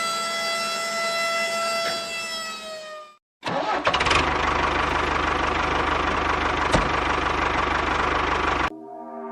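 A small motor running with a high whine that sags slightly in pitch and stops about three seconds in. After a brief silence a second, noisier mechanical running sound with a rattle comes in and cuts off near the end.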